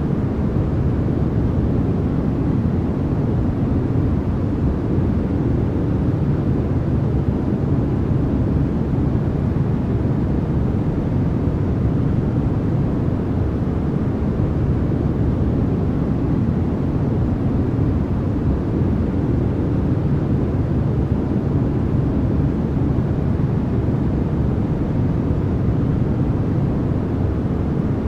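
Steady, unchanging white noise with no breaks or events; most of its energy sits low, so it sounds like a deep, even hush rather than a bright hiss.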